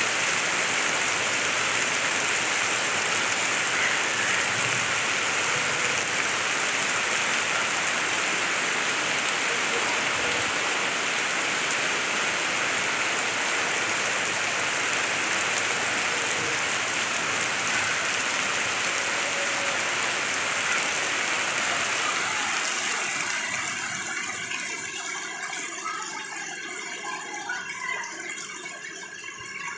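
Heavy rain pouring steadily. Near the end it drops away to a much quieter patch with scattered small clicks.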